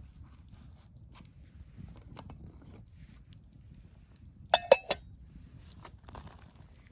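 Three quick, sharp clinks of cookware or a cup, ringing briefly, about two-thirds of the way through. Faint crackling ticks from a campfire are heard around them.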